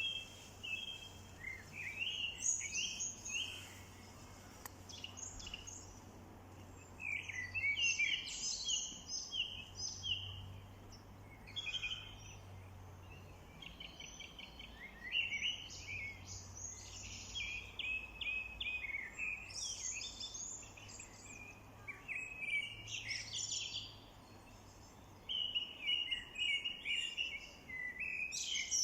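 Songbirds singing and chirping outdoors, phrase after phrase every second or two with short pauses, over a faint low hum.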